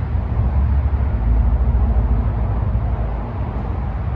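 Steady low rumble with a light hiss and no distinct knocks or clicks.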